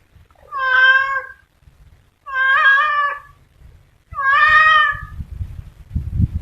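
A cat meowing three times, each meow a long, drawn-out call of about a second. A low rumbling noise follows near the end.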